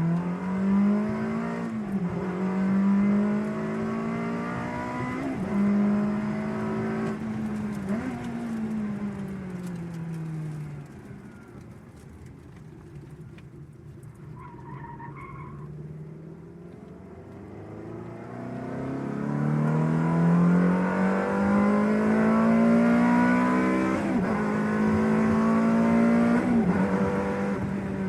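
Ferrari engine heard from inside the car, accelerating through the gears: the pitch climbs, then drops back at each upshift. About a third of the way in it eases off into a quieter cruise, then pulls hard through the gears again.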